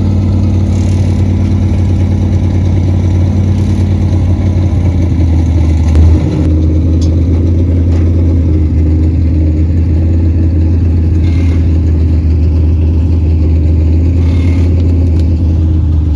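An engine running steadily, a loud low drone that holds at an even pitch, with a short louder bump about six seconds in.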